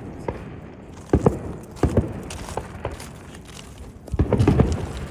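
A few dull thuds and knocks: one about a second in, another about two seconds in, and a longer run of thuds near the end.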